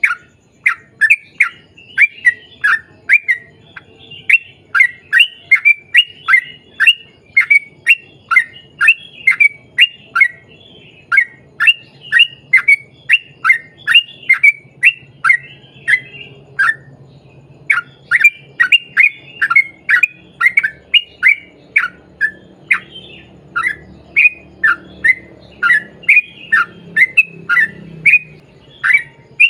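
Yellow-vented bulbul (trucukan) calling in a long, rapid string of short, sharp notes, about three to four a second, each dropping quickly in pitch. The string breaks off briefly about halfway through.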